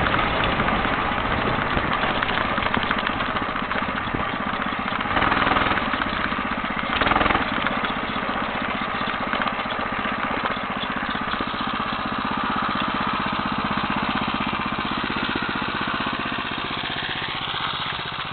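Engine of a homemade motorcycle running steadily with a rapid firing beat, swelling louder briefly about five seconds in and again about seven seconds in.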